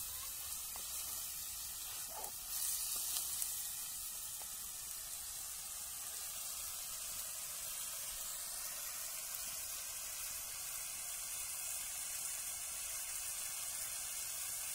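Crab pieces, onion and tomato frying in oil in a clay pot, sizzling steadily. A few soft knocks come about two to three seconds in.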